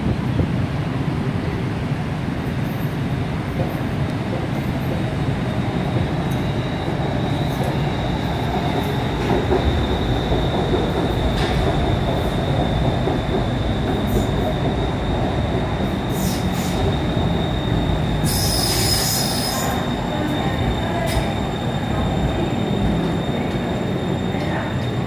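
Bangkok BTS Skytrain electric train pulling into an elevated station and slowing to a stop, with steady running rumble and a thin, high steady squeal. A short high-pitched hiss comes about three-quarters of the way through.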